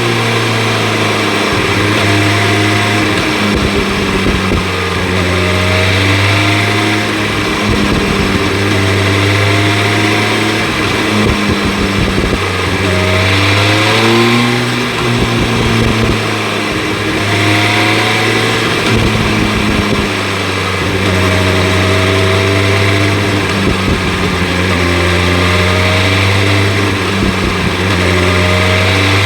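2025 BMW S1000 RR's inline-four engine with an Akrapovic exhaust, ridden on the road. The revs climb for a few seconds and then drop back, again and again through the stretch, over a steady rush of wind noise.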